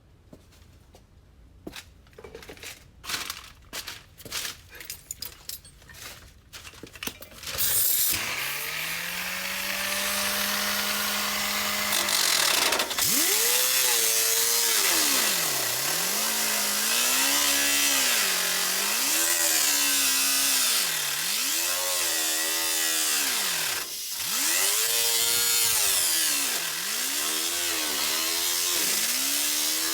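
Handheld rotary power tool working the sheet metal of a pickup's cab corner. First come a few scattered knocks and taps, then about eight seconds in the motor spins up to a steady speed. From about thirteen seconds on, its pitch dips and recovers over and over, with a loud grinding hiss, as it is loaded against the metal and eased off.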